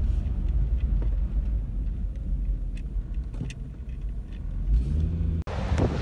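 Steady low rumble of a car on the move, engine and road noise. About five and a half seconds in it breaks off sharply and gives way to a rougher, wider noise.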